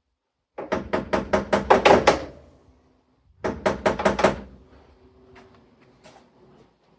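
Electric fuel pump ticking as it primes: a fast run of sharp clicks, about six a second, a pause, then a second shorter run. After that only the odd faint tick, as the fuel line fills.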